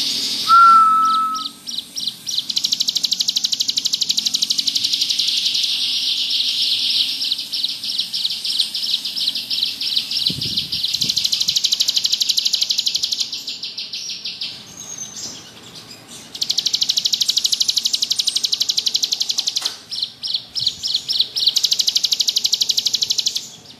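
Ciblek gunung (a prinia) singing in long, very rapid, buzzing trills, the "ngebrem" song, in several runs of a few seconds each with short breaks. A single short clear whistle comes about half a second in.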